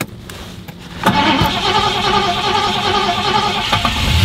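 Rover P6 estate's starter motor cranking the engine with the choke out, starting suddenly about a second in and running as a steady, rhythmic churn for about three seconds. The engine catches right at the end.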